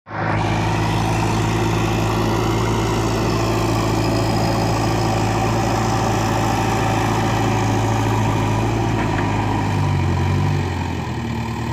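Vehicle engine idling steadily, its note shifting slightly lower about ten seconds in.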